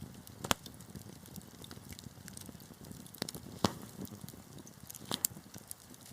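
Wood fire burning in a fireplace: a low steady rumble of flames with scattered sharp crackles and pops, the loudest about half a second in and a little past the middle.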